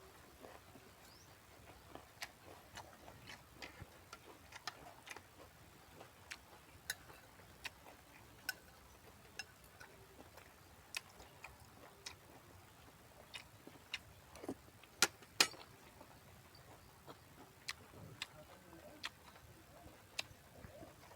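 Someone chewing and eating with their mouth close to the microphone: scattered soft clicks and smacks at irregular intervals, with two louder ones about two-thirds of the way through.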